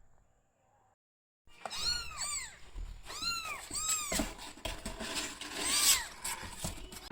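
Kittens mewing: many short, high calls that rise and fall, some overlapping, beginning about a second and a half in, with light knocks and rustling from the cats moving about.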